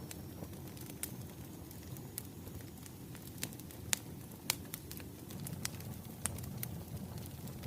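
Wood fire crackling: a steady low rumble of burning logs with scattered sharp pops, two louder ones close together near the middle.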